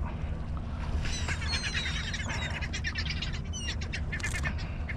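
Several seagulls calling in quick repeated series, their calls overlapping, over a steady low rumble.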